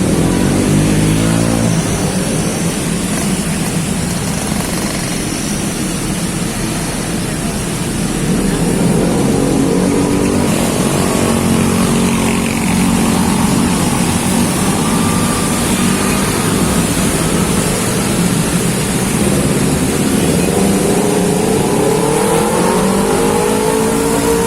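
Heavy rain falling steadily, with motor vehicles driving past on the wet road; an engine's pitch rises near the end.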